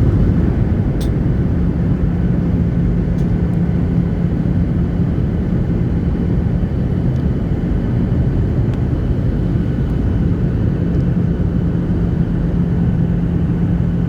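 Steady airliner cabin noise: a low, even rumble with a constant hum, and a couple of faint clicks.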